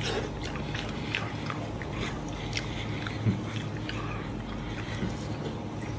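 A man biting into and chewing braised beef rib meat with rice, close to the microphone: short wet smacks and clicks scattered throughout, with a brief low thump about three seconds in.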